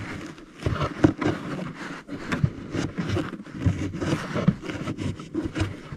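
Foam insert and plastic trim being handled and pushed back into place: irregular rustling, scraping and small clicks and knocks.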